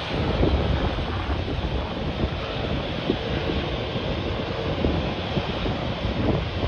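Wind buffeting the microphone in gusts, over the steady rushing noise of an aircraft's engines that fades slightly through the stretch.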